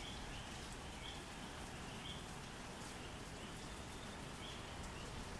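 Steady hiss of light night drizzle, with faint high chirps from night creatures repeating about once a second. No thunderclap or loud event.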